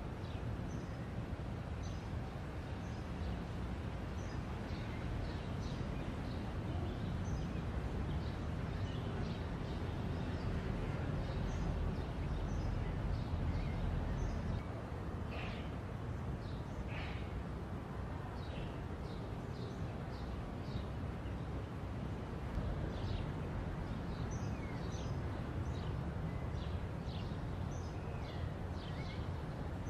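Small birds chirping in many short, high calls, over a steady low background rumble.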